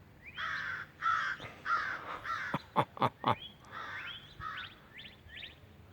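Crows cawing: a run of harsh caws in the first two seconds, a few sharp short sounds in the middle, then fainter caws toward the end.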